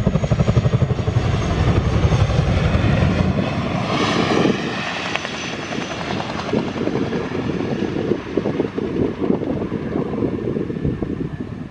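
Boeing CH-47 Chinook tandem-rotor helicopter with its rotors beating in a fast, deep thudding over turbine noise. The thudding drops away about three and a half seconds in, leaving a steadier rushing engine and rotor noise.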